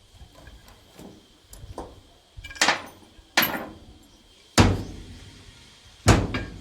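Metal parts or tools being knocked and set down during repair work: a few soft clinks, then four loud sharp knocks about a second apart, each with a short ring.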